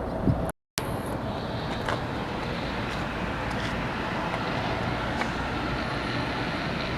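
Jet airliner engines, a steady rush of noise that drops out briefly about half a second in.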